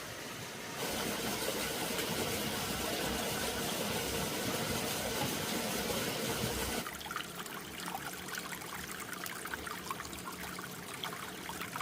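Running water: a steady rush that cuts off abruptly about seven seconds in, giving way to a lighter trickle with small clicks.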